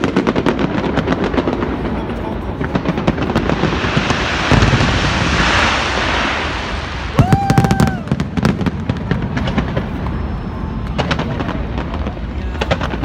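Fireworks display going off: a steady run of sharp bangs and crackles, with a swelling crackling hiss around the middle. A dense cluster of loud bangs with a brief whistle comes about seven seconds in, then scattered pops.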